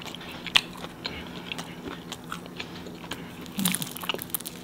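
Close-miked chewing and biting of pizza, with crunches and wet mouth clicks. There is a sharp click about half a second in, over a faint steady hum.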